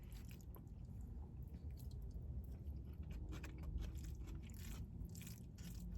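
A person chewing a mouthful of food: faint, irregular small clicks.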